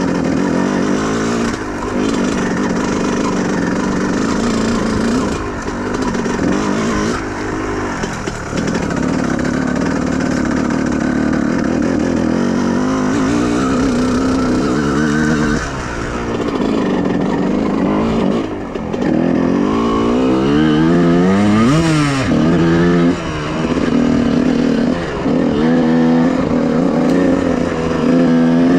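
Honda CR125R's two-stroke single-cylinder engine running while the bike is ridden, the revs rising and falling with the throttle. Near the end the revs swing up and down several times in quick succession.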